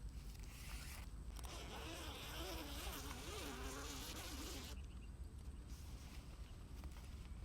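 A flying insect buzzing for about three seconds, starting a little over a second in, its pitch wavering up and down as it moves, over a steady low rumble.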